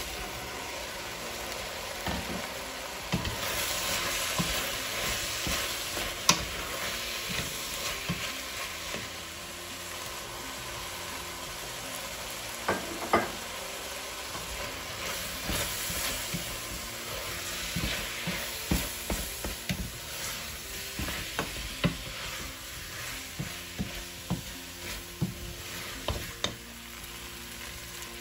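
Browned beef chunks and diced vegetables sizzling in a hot metal pot while being stirred, with frequent knocks and scrapes of the stirring utensil against the pot that come more often in the second half.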